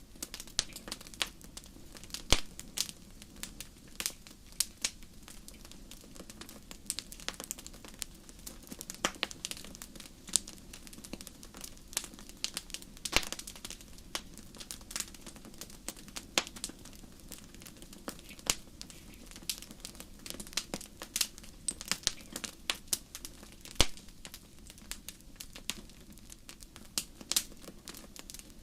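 Wood fire burning in a fireplace, crackling and popping irregularly over a low steady hiss, with a few louder pops.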